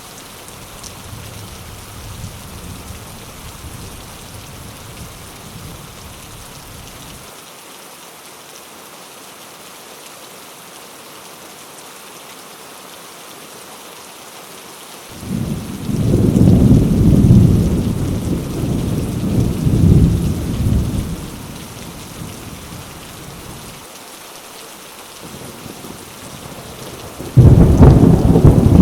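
Heavy rain falling on mango leaves: a steady hiss and patter. About halfway through, and again near the end, loud low rumbles swell in over the rain, the first lasting several seconds.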